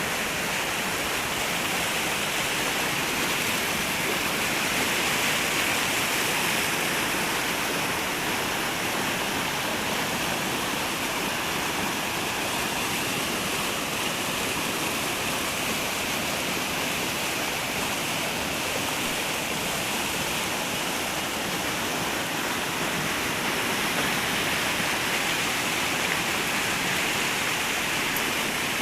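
Flowing water, a steady unbroken rush.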